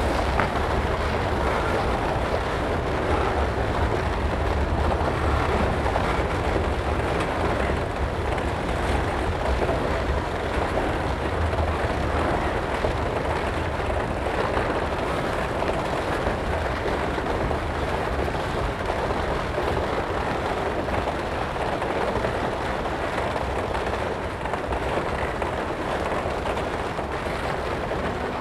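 Loaded freight cars, mostly centerbeam lumber cars, rolling steadily past on the rails: a continuous low rumble of wheels on track with a rushing noise over it.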